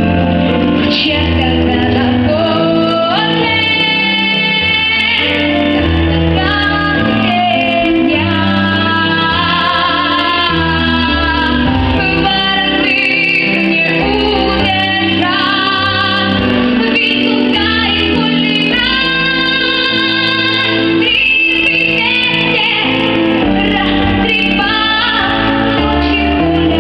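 A female voice singing a song over instrumental accompaniment, holding long notes with vibrato.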